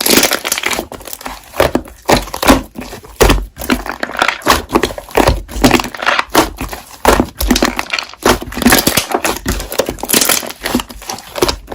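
Slime being squeezed and pressed by hand, with an irregular run of sharp crackling and popping clicks.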